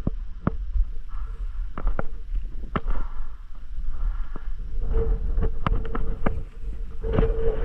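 Wind buffeting the microphone in a steady low rumble, with about a dozen sharp, irregularly spaced clicks of airsoft shots.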